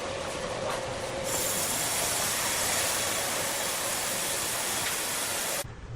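Steady machinery noise: a running hum under a hiss that turns louder and brighter about a second in, then cuts off abruptly near the end.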